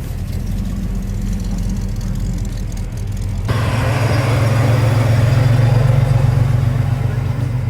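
Classic car engine running with a deep, steady exhaust rumble. About three and a half seconds in it turns suddenly louder and fuller.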